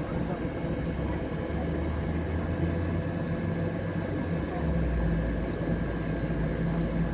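A train's steady low hum and rumble, with a few steady tones in it, whose deepest note drops lower about four and a half seconds in.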